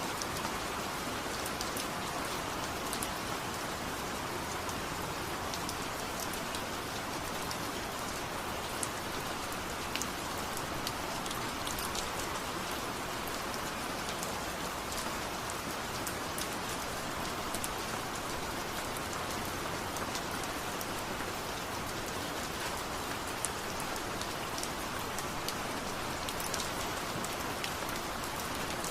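Steady rain falling, an even hiss with scattered faint ticks of individual drops hitting a surface.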